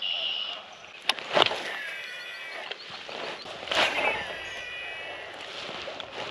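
Outdoor ambience in light rain with a steady hiss, broken by a few sharp knocks or clicks, the loudest near four seconds in, and some thin gliding whistle-like calls in between.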